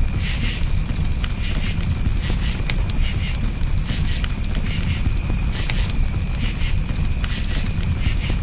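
Crickets chirping in repeated pulsing trills over a crackling wood campfire, with scattered sharp pops and a steady low rumble underneath.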